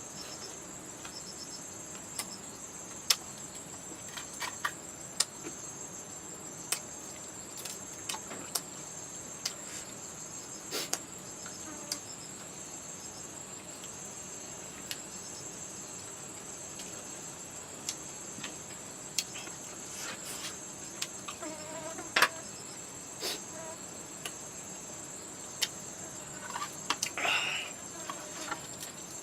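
Insect chirring: a steady, high-pitched, fast-pulsing trill, with scattered sharp clicks and snaps throughout.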